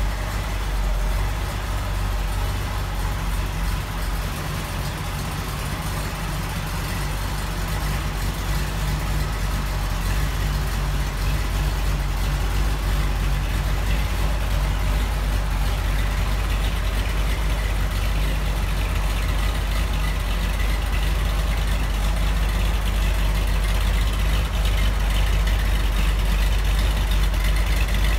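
1967 Chevrolet Corvette's V8 idling with a steady low rumble, growing a little louder toward the end.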